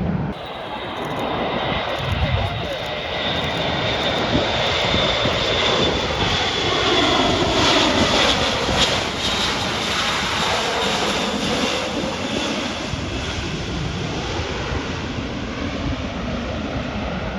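Military aircraft flying past an airshow crowd. The engine noise with a high whine builds to its loudest about eight seconds in, drops in pitch as the aircraft passes, then fades away.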